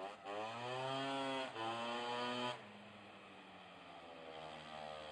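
Two-stroke scooter engine blipped twice, the pitch rising and falling each time, then dropping back to a steady idle.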